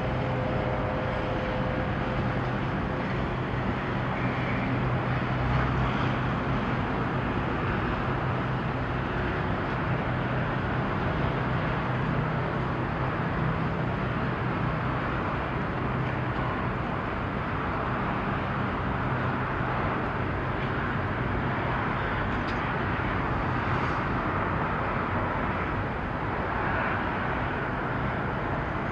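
Steady low engine hum under a constant wash of noise, with no clear changes.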